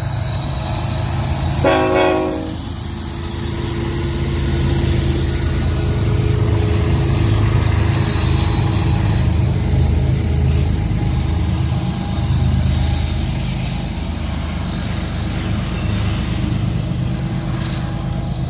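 BNSF freight train passing, its diesel locomotives running with a steady low drone. A short horn blast sounds about two seconds in.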